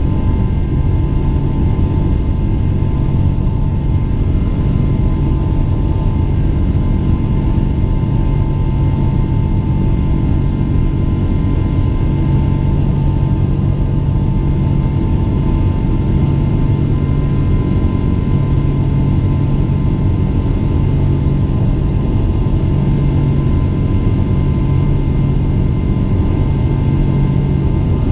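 Boeing 777-200 jet engines running at high power, heard from inside the cabin: a loud, steady rumble with a constant whine and a low hum that throbs gently.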